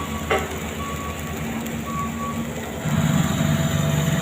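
Diesel engines of road-paving machinery running steadily, with a reversing alarm beeping twice in the first half; about three seconds in, an engine gets louder as a machine works harder or comes closer.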